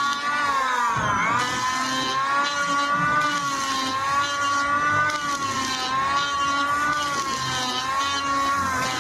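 Electric hand planer running under load, a steady high whine that wavers in pitch, dipping sharply and recovering about a second in.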